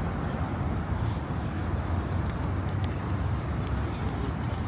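Steady outdoor street ambience at a car show: a continuous low rumble of traffic and cars under faint crowd chatter.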